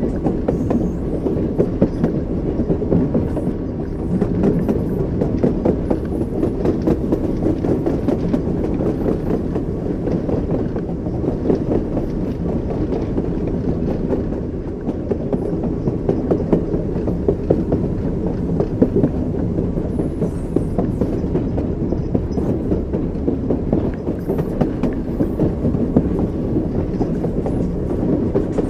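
Train wheels running over the rails: a steady low rumble with a fine rattle of clicks throughout.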